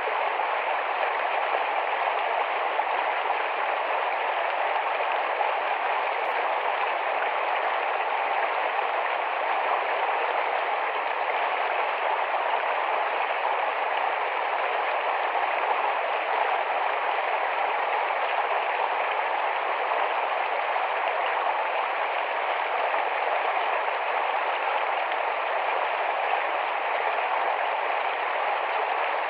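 Shallow, rapid forest stream rushing and babbling over rocks: a steady, even wash of water noise.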